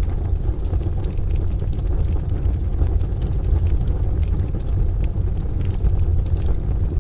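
Wood fire crackling in a stove, with scattered sharp pops over a steady deep low rumble that runs underneath.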